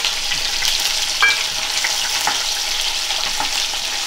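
Paneer cubes sizzling and crackling as they shallow-fry in hot oil in a kadai, with the spatula stirring them and a short clink about a second in.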